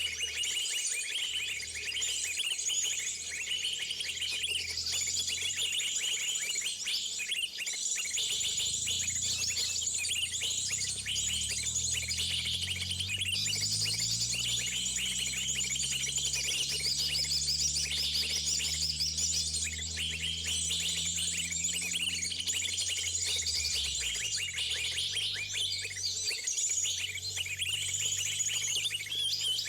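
Many small birds chirping and calling at once in a dense, continuous high-pitched chorus, as when a flock gathers at a bird-trapping spot. Under it, from about eight seconds in, a low drone slowly rises in pitch, then drops away shortly before the end.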